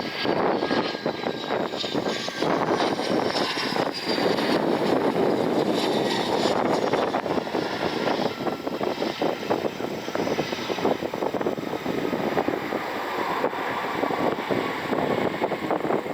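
Learjet business jet's engines passing close by as it comes in to land: a loud, steady jet roar with a thin whine that slowly falls in pitch over the first few seconds.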